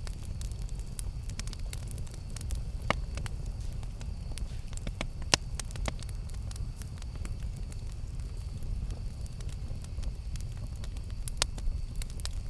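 Wood campfire crackling: scattered sharp pops and snaps over a low, steady rumble, with a few louder pops about three, five and eleven seconds in.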